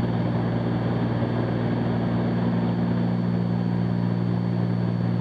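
Steady drone of a Cessna 310Q's twin piston engines and propellers in cruise, heard inside the cockpit, with a constant low hum of several tones over an airflow hiss.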